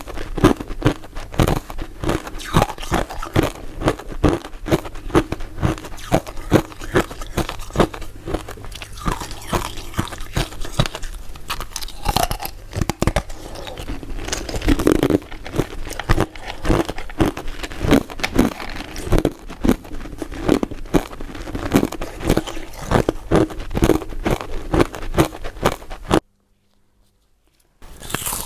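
Close-up crunching and chewing of crisp crystal ice dessert pieces, a rapid run of sharp crunches. The crunching stops near the end for about two seconds.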